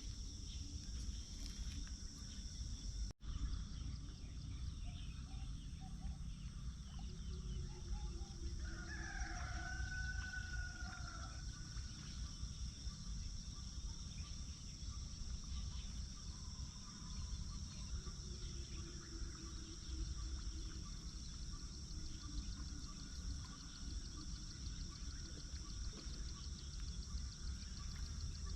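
A rooster crowing: one long, drawn-out crow about nine seconds in, with fainter crowing later. Under it runs a steady high insect drone, and the sound cuts out for an instant about three seconds in.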